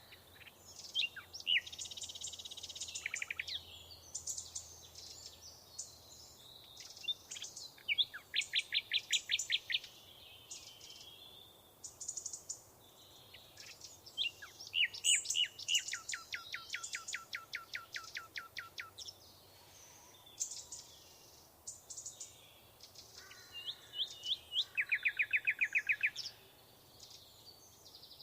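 Several songbirds singing and chirping, with three long, rapid trills of evenly repeated notes.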